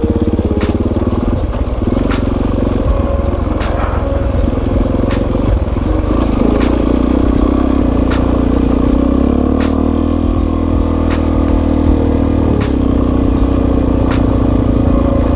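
Suzuki DR-Z400S single-cylinder dual-sport motorcycle engine running steadily under way, its note shifting a little with the throttle. A sharp tick sounds about every second and a half.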